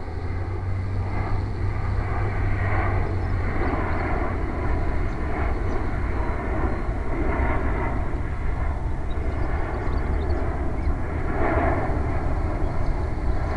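Electric RC model airplane's motor and propeller whine, swelling and fading as the plane flies through a loop, over a steady low rumble.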